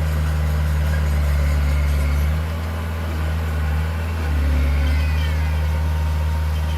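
Heavy diesel engine of earthmoving machinery running with a steady deep hum. It eases off a little about two and a half seconds in and picks back up about four and a half seconds in.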